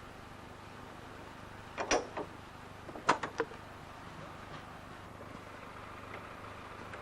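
Seaton Tramway electric tramcar running, a steady low hum with two short clusters of sharp clicks and knocks about two and three seconds in.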